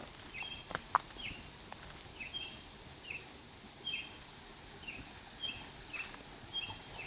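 A bird calling over and over in the woods: short, high, falling chirps about once a second. There are a couple of faint clicks about a second in.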